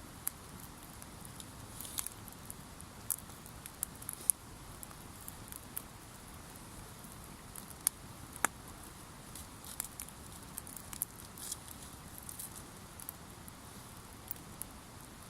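Wood campfire crackling: irregular sharp pops and snaps, a few louder ones, over a low steady hiss.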